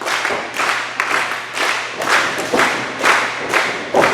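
Wrestling crowd in an arena clapping in unison, about two claps a second.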